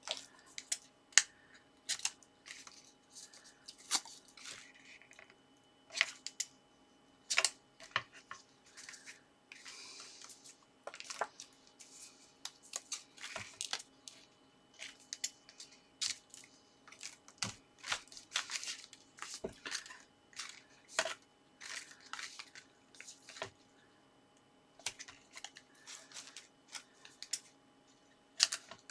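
Card stock and double-sided adhesive tape being handled by hand: scattered rustles, taps and crackles as the card is folded, pressed and the tape peeled and stuck.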